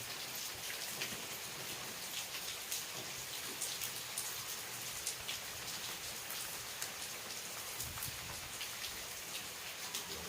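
Steady rain falling, an even hiss with many individual drops ticking on surfaces.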